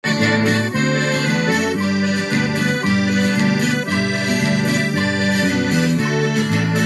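Instrumental opening of a forró song: an accordion playing the melody over a moving bass line and a steady dance beat.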